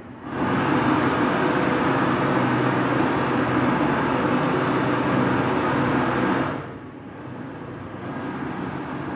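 Steady hum of a running motor, with a loud rushing hiss of refrigerant gas that starts just after the beginning and cuts off after about six seconds.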